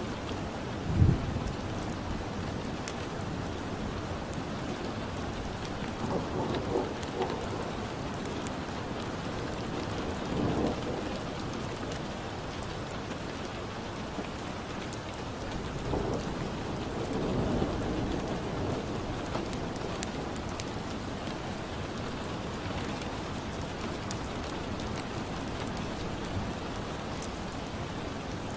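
Steady rain with a crackling fire, fine clicks scattered through it. Low rumbles swell out of it several times; the loudest is a sudden low thump about a second in.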